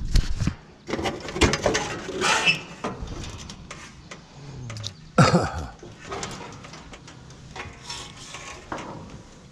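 Irregular metal clanks and rattles as scrap parts from an air-conditioning unit are handled and set down during a teardown, with a sharper, louder knock about five seconds in.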